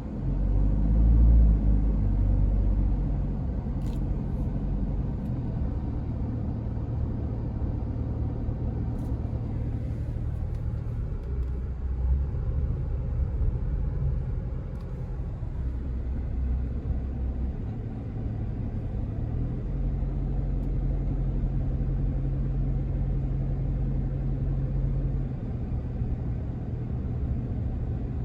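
Truck engine running with a low, steady drone that shifts in pitch several times, as when changing speed.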